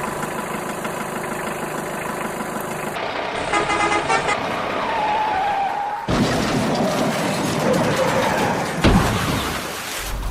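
Vehicle engine and horn sounds in several short segments that change abruptly every few seconds.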